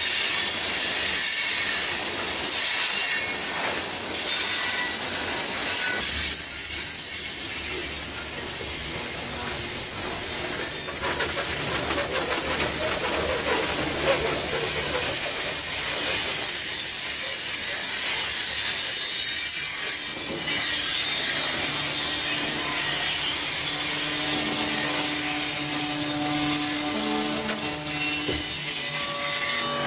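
Freight train cars of an iron-ore train rolling past: a steady rush and hiss of steel wheels on rail, with a few steady tones joining in over the last several seconds.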